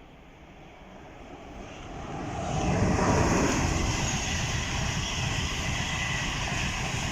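A high-speed LNER Class 800 train approaching and running through the station at speed. The rush of wheels and air builds over the first three seconds, then holds as a loud, steady rumble with a high hiss.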